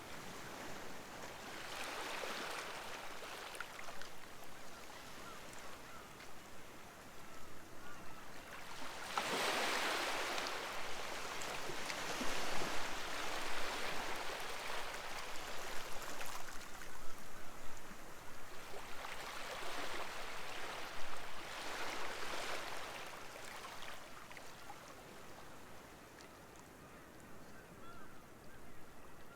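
Small sea waves breaking and washing up the beach, in slow surges every few seconds. The largest comes about nine seconds in, and the wash is quieter near the end.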